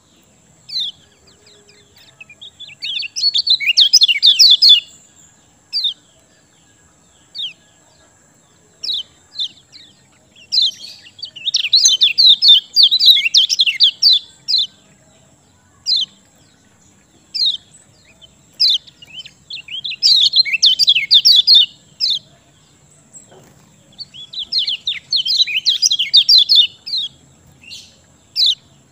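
Common iora (kecial kuning) singing: four bursts of rapid chattering notes, each a few seconds long, with single sharp chip notes scattered between them.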